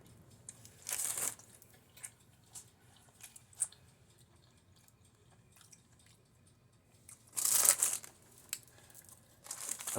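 Someone chewing a mouthful of toasted brioche sandwich, with a few short crunching or rustling sounds about a second in and again at about seven and a half seconds, the second the loudest.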